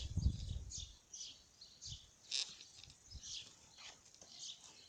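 Small birds chirping in short, scattered calls, with a few low thumps in the first second.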